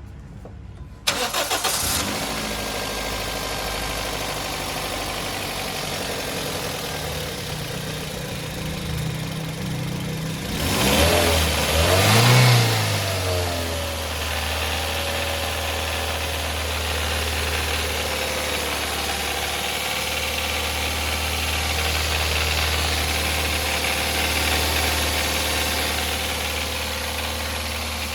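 Toyota Corolla GLi engine starting about a second in and running at a raised, held speed. It is revved once, rising and falling around the middle, then settles to a steady lower idle. The mechanic calls this engine's sound bad and is checking it.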